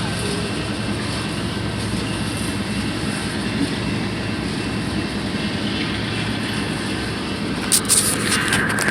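Train passing: a steady rumble with a low engine hum. A few sharp clanks come near the end, then a steady high-pitched tone sets in.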